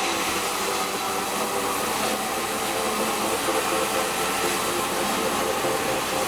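Sawmill machinery running steadily: an even hiss with a steady mechanical hum underneath.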